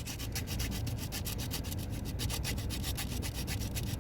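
Rapid, even back-and-forth rubbing or scraping, about nine strokes a second without a break.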